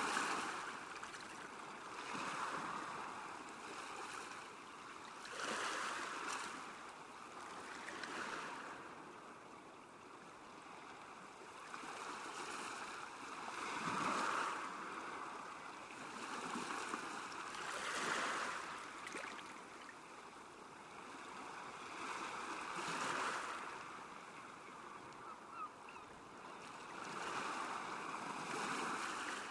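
Small lake waves lapping at the shore, washing in softly every few seconds over a steady watery hiss.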